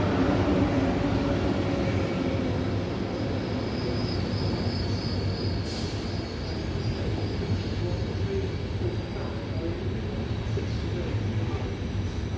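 A train running through a station with a steady rumble. A faint, high, thin tone comes in for a couple of seconds about four seconds in, and there is a brief click near the middle.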